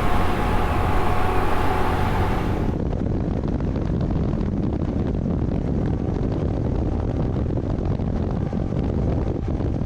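Honda CT125's small single-cylinder engine running while riding, with wind and road noise on a helmet microphone. About three seconds in the sound turns duller, the engine's steady tone giving way to a low rush of wind and rumble.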